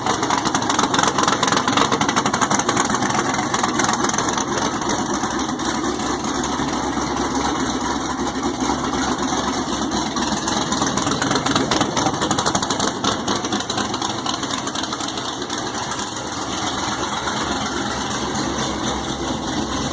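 Race car engine idling steadily, running on its first start after a new fuel pump, fuel lines and rewiring were fitted.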